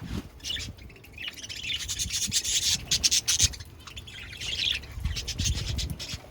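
Pet budgies chattering: a scratchy, twittering warble thick with quick clicks and a few low thumps.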